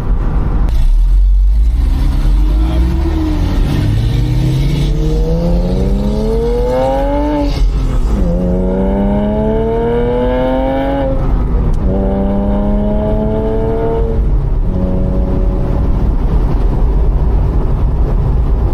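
Porsche 987.1 Boxster's flat-six, fitted with aftermarket headers, a cat-back exhaust and mini race mufflers, accelerating up through the gears. The engine note climbs and then drops at each of three short-shifted upshifts, a few seconds apart, and settles to a steady cruise near the end.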